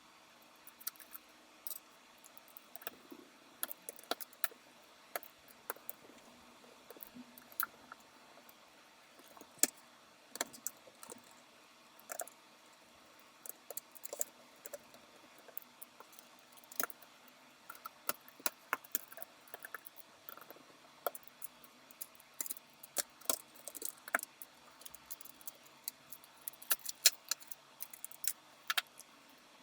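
Irregular clicks and light metallic clinks of small parts and tools being handled during computer assembly work, denser in the second half.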